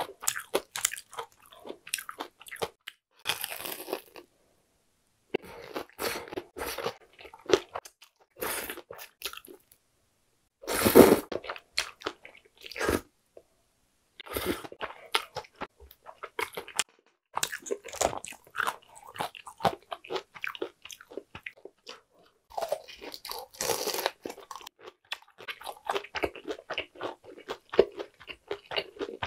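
Close-miked crunching and chewing of crisp deep-fried food: a fried shrimp ball and a breaded cheese pork cutlet. The sound comes in clusters of crackly bites separated by short silent pauses, with one especially loud crunching bite midway.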